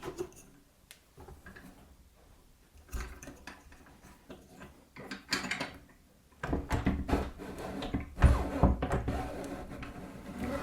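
Metal clunks, clicks and rattles as the feed handle and height adjustment of a Parkside bench pillar drill are worked by hand, moving the stiff, spring-loaded drill head. Sparse clicks at first, then a busier run of rattling and clunking from about halfway, loudest a little later.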